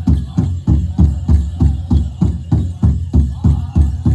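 Powwow big drum struck by a drum group in a steady, fast beat of about four strikes a second, playing a grass-dance song.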